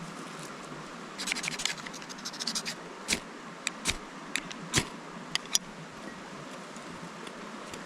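A run of quick scraping strokes, then a handful of sharp snaps spaced about half a second to a second apart, over a steady background hiss.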